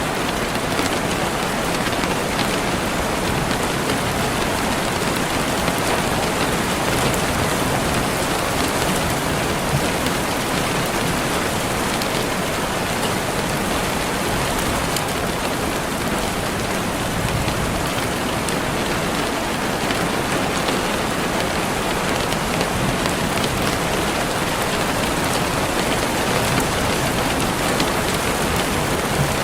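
Steady rain falling, an even dense hiss with fine scattered drop patter.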